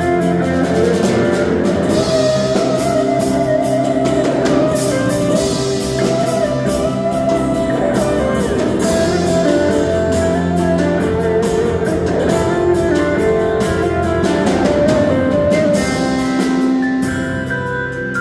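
Live band playing an instrumental passage of a worship song: guitar with sustained melodic lines over bass and a drum kit keeping a steady beat.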